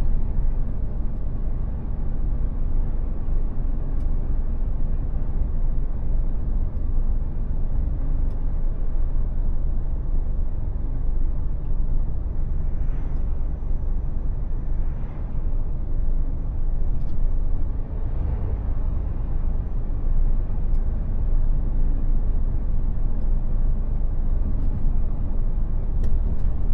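Mercedes Actros lorry on the move: a steady low rumble of its diesel engine and tyre and road noise.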